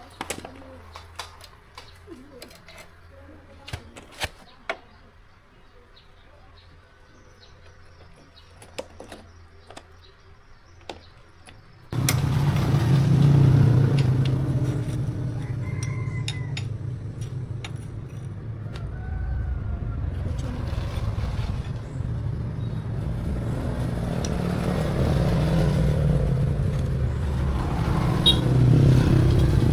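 Scattered light clicks and taps, then about twelve seconds in a motor vehicle engine comes in abruptly and runs steadily, its loudness swelling and easing.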